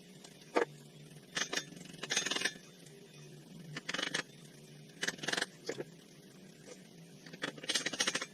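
Metal clinking and scraping in short bursts, about eight times, some single sharp clicks and some quick rattling runs, over a faint steady hum.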